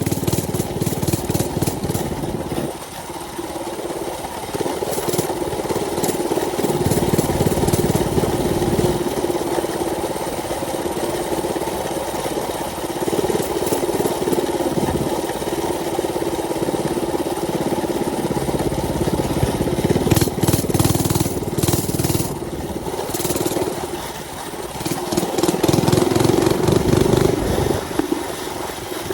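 Mini bike's small engine running under way, its note swelling and easing several times as the throttle is opened and closed, with wind rushing over the microphone.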